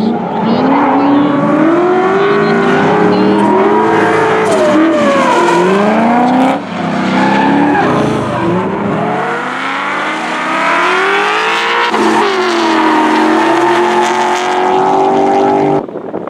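Drift car's engine revving hard, its pitch rising and falling again and again as the throttle is worked through a drift, with tyre squeal. The sound dips suddenly about six and a half seconds in and drops sharply near the end.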